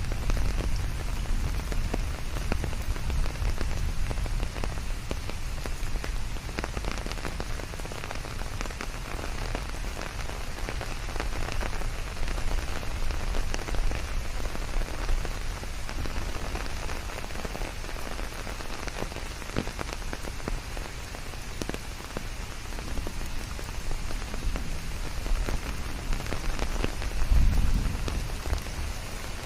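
Steady rain falling on a surface, with many separate drops pattering through a constant hiss. A brief low rumble swells up about 27 seconds in.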